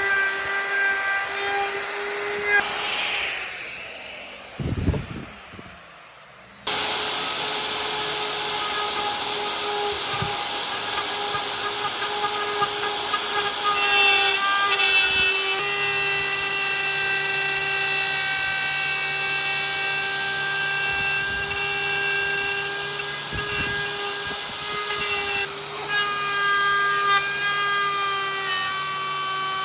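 Electric power tool running with a steady whine. It winds down about three seconds in and cuts back in abruptly a few seconds later.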